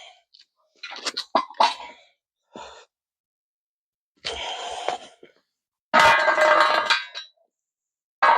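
Metal hand tools clinking and clattering in short bouts, as when wrenches are rummaged through and picked up, with the loudest, ringing clatter about six seconds in and a sharp knock near the end.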